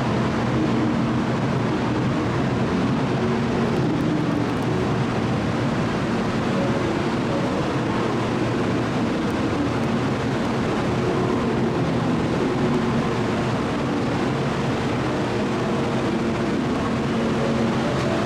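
A Kyushu Shinkansen train giving a steady, even noise with a constant low hum of several held tones that neither rise nor fall.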